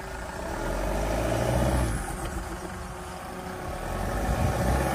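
Toyota Fortuner's engine revving up under load twice, about a second in and again near the end, as the two-wheel-drive SUV works across cross-axle ruts with one tyre lifted off the ground.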